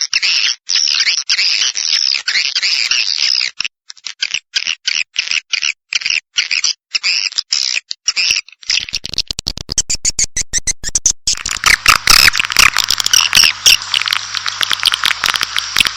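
Recorded swiftlet twittering played as a calling sound to lure swiftlets into a nesting house: a dense, continuous run of rapid high chirps. About nine seconds in it breaks into fast clicking, then the chirping comes back denser and louder over a low steady hum.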